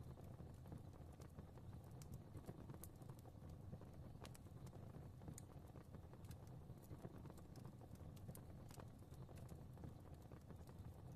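Fireplace fire crackling softly: a faint low rumble of flames with scattered small, irregular pops and snaps.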